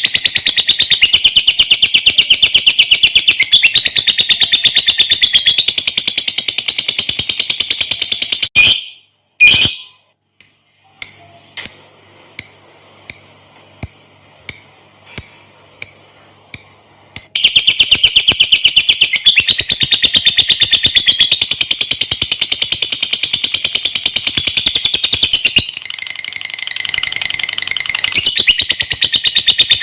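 Lovebird giving its long, very rapid chattering trill (the 'ngekek panjang' call). About a third of the way in the trill stops and gives way to separate short chirps at about two a second, then the long trill starts again.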